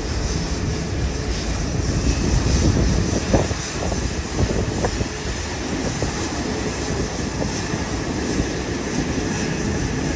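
Jet airliner engines running steadily, heard under heavy wind buffeting on the microphone that makes an uneven, gusty rumble.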